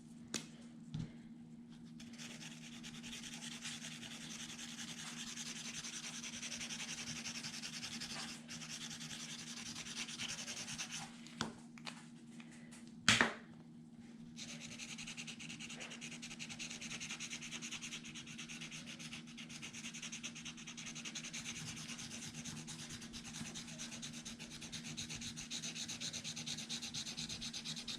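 Colouring tool rubbing back and forth over a paper pumpkin, adding coral colour: a steady scratchy rubbing on paper in two long stretches, broken by one sharp click about thirteen seconds in.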